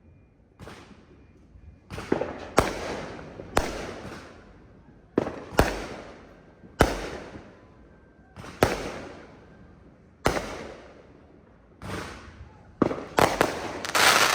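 Fireworks going off: a string of sharp bangs about every second, each with a long echoing tail, coming faster near the end.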